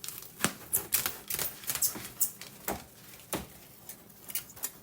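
Plastic cling wrap crinkling and crackling irregularly as it is pulled off the roll and wrapped around a raw turkey.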